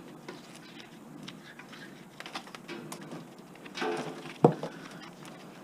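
Copper cable being handled at a wire stripper: scattered rustles and light clicks, with one sharp knock about four and a half seconds in.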